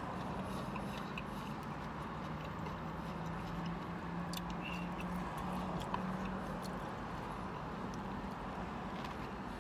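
Faint chewing and small wet mouth clicks from someone eating a soft roll, over a steady low hum inside a car's cabin.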